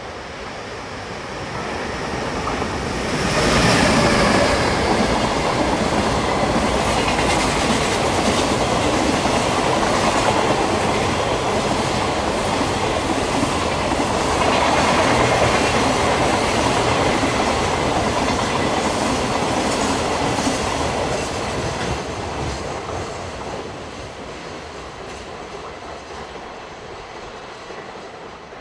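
JR Freight EF510 electric locomotive hauling a long container freight train past. The sound builds as it approaches and turns suddenly loud as the locomotive passes about three seconds in, then the wagons' wheels clatter over the rail joints for nearly twenty seconds before fading as the tail of the train goes by.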